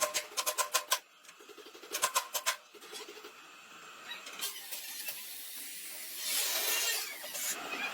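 Two quick runs of sharp, lightly ringing taps, the first at the start and the second about two seconds in, then a steady rasping scrape near the end, like filing or rubbing.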